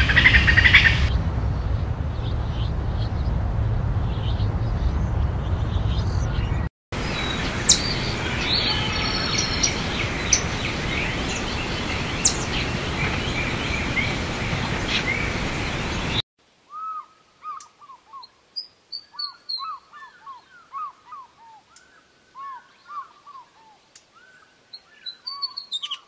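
Short chirping calls of a squirrel and then a chipmunk. The first part carries heavy background noise and a steady rumble under scattered chirps; from about 16 s in the chirps come clean and quick, short falling notes repeated irregularly.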